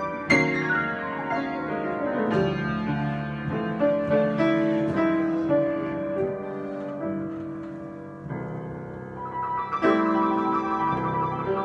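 Solo piano improvisation: a descending run of notes ringing over held chords, easing off to a softer passage, then a fuller chord struck about ten seconds in.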